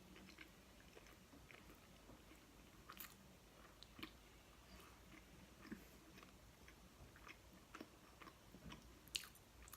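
Faint chewing and biting of pizza: soft, scattered mouth clicks and small crunches, a slightly sharper one about three seconds in and another near the end.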